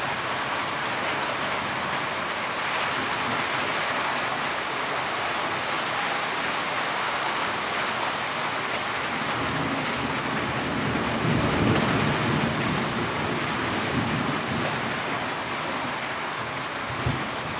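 Steady heavy rain falling, with a low rumble of distant thunder that swells and fades about two-thirds of the way through.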